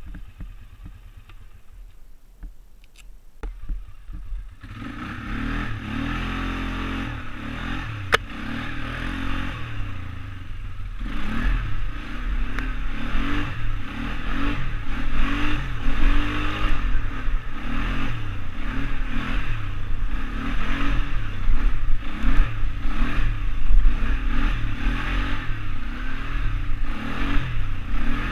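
ATV engine running low and quiet, then about five seconds in picking up and running under throttle, its pitch rising and falling, with rattling from the machine. A single sharp click about eight seconds in.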